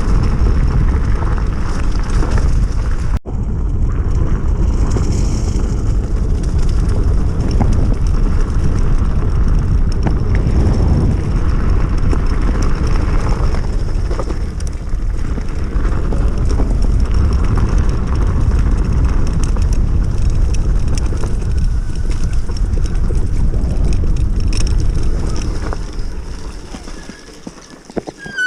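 Steady wind rush on the microphone and tyre noise while riding a 72 V, 3000 W hub-motor electric enduro bike at speed. The noise dies down near the end.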